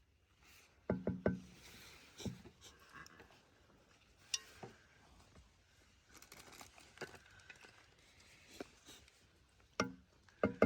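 Scattered knocks and light clinks of small objects being handled. Several louder knocks land close together about a second in, and again near the end.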